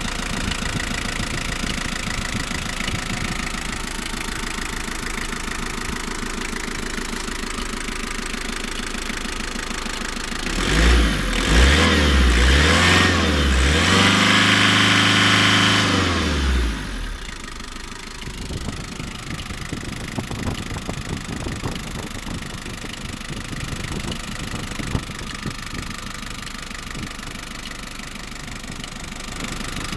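Mazda-built R2 2.2-litre diesel engine of a Mitsubishi Delica idling with a steady clatter; about a third of the way in it is revved twice in quick blips and then held at a higher speed for a few seconds before dropping back to idle.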